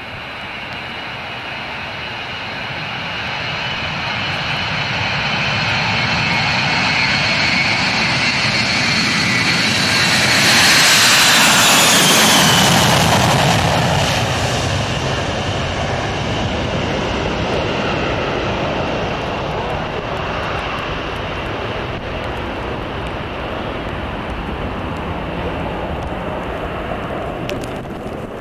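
Four-engine jet airliner with Pratt & Whitney JT3D turbofans flying past close by. The engine noise and a high whine build steadily, are loudest about halfway through as the whine drops in pitch, then fade slowly.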